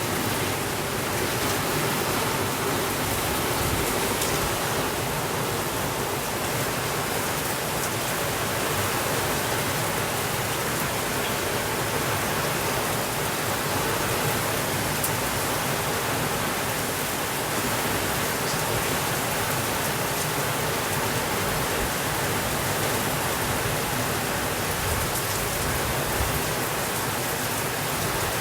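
Steady rainfall, an even hiss of rain with a few faint ticks of drops.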